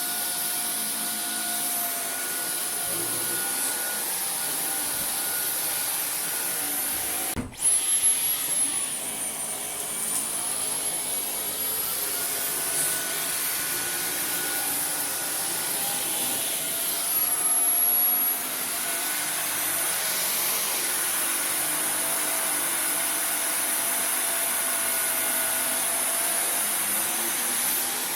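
Dyson V15 Detect cordless stick vacuum running over carpet, a steady high motor whine. Its pitch glides up and down a few times as the motor changes power with the dirt it detects. It breaks off for an instant about seven seconds in.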